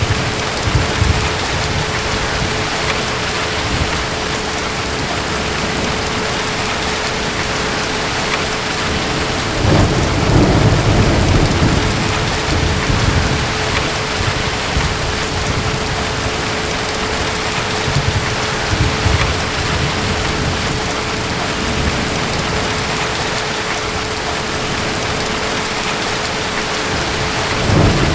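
Steady heavy rain with low rumbles of distant thunder, one swelling about ten seconds in and another starting at the very end.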